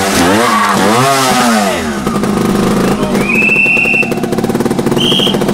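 Trials motorcycle engine blipped in quick revs for about two seconds, then running at a steady low idle. Over it, two short high whistle tones sound: a longer one past the middle and a brief one near the end.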